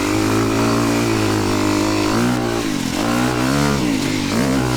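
Honda motocross bike's engine under way at a steady pitch, then revving up and down several times from about two seconds in as the throttle is rolled on and off.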